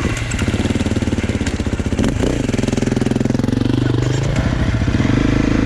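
Dirt bike engine running under way, its revs dipping about two seconds in, climbing, dipping again past four seconds and then holding steady.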